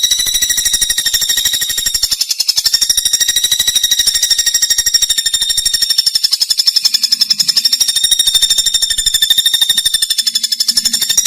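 A songbird's high, rapid trill, held without a break, played as a 'masteran' recording for training cage birds to sing. The pulses come too fast to count, with one steady high pitch.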